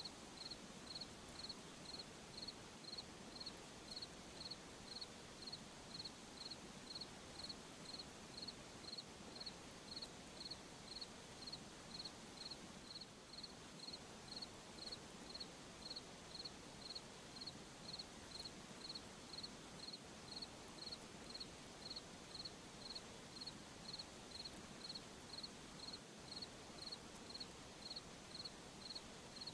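Cricket chirping steadily, a high pulsed chirp repeating about twice a second, over a faint hiss.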